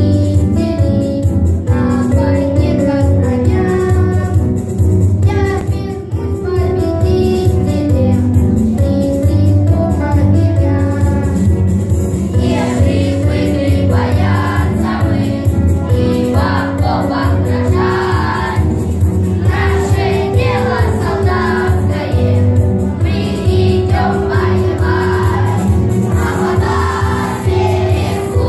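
A children's choir singing a song in Russian over a steady musical accompaniment. The voices come in more strongly about halfway through.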